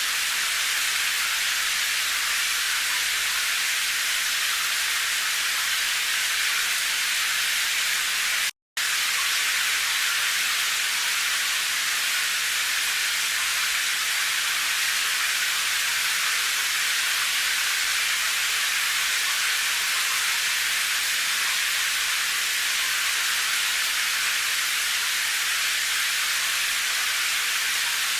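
Steady, even hiss of rain with no separate drops standing out, cut by a brief gap of silence about eight and a half seconds in.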